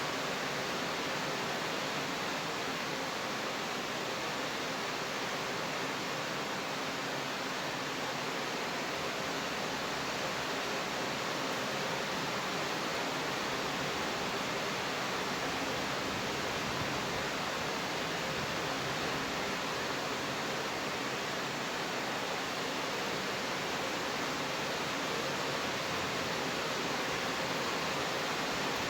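Steady rain falling, an even hiss without separate drops or changes.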